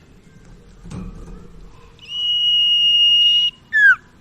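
Sirtu (cipoh) bird calling: one long, steady, high whistle held about a second and a half, then a short note sliding quickly downward near the end. A soft thump about a second in.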